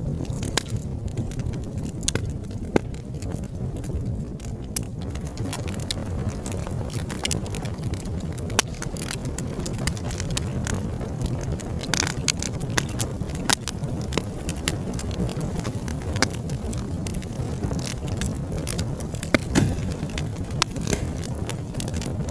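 Wood fire crackling, with frequent sharp, irregular pops and snaps over a steady low noise of the burning flames.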